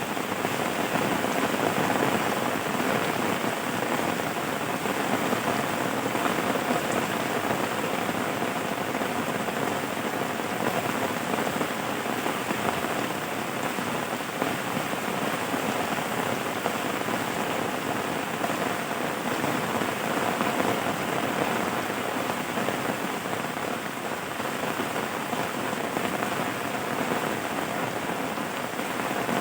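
Steady, even rain falling, with no thunder or separate drops standing out.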